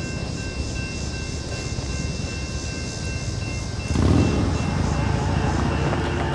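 Train passing with a steady rumble that grows louder about four seconds in.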